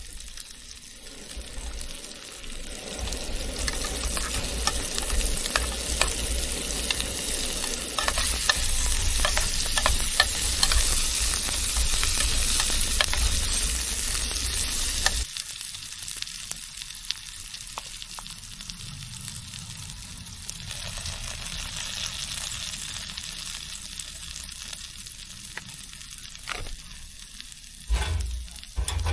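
Food sizzling and crackling in a hot frying pan, louder through the first half, then dropping suddenly to a quieter sizzle about fifteen seconds in. A few short knocks come near the end.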